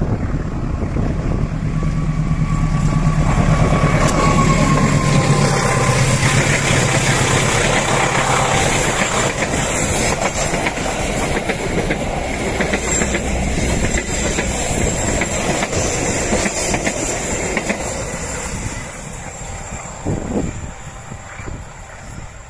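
Passenger train hauled by a CC 203 diesel-electric locomotive passing close by. The locomotive's engine hum is loudest about four seconds in, then the coaches' wheels click and rattle over the track, fading away near the end.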